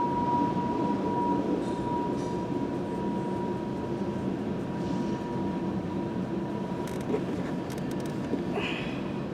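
A freight train led by two CSX SD40-2 diesel locomotives, their EMD two-stroke V16 engines droning steadily as the train runs past and the sound slowly falls away. A steady high-pitched tone fades out about six seconds in, and a few light clicks come near the end.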